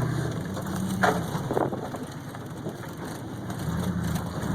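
Old pickup truck's engine running as it drives off-road, with sharp crunching or cracking knocks about a second in and again shortly after; the engine fades in the middle and comes back near the end.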